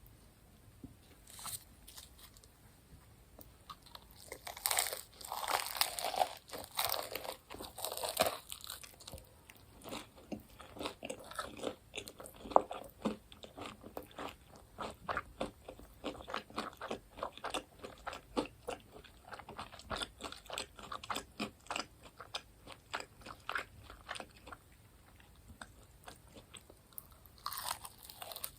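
Bites into crispy fried food, with loud crunches for several seconds, then steady crunchy chewing at about two to three crunches a second. Another loud bite comes near the end.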